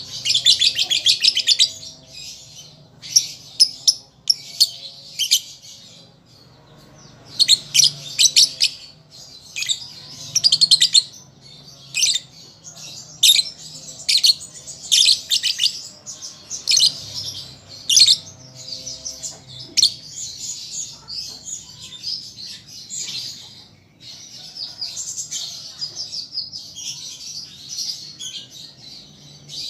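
Young lovebird chattering: repeated bursts of rapid, high twittering mixed with sharp chirps, broken by short pauses.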